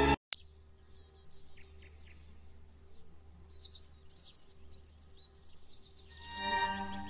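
Music stops abruptly with a click. Then there is faint birdsong: quick high chirps and trills over a low hum. Music fades back in near the end.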